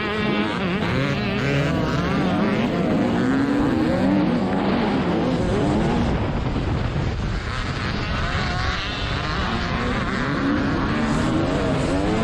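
TM 300 two-stroke single-cylinder motocross bike engine under race load, revving up and down over and over as the throttle is opened and shut.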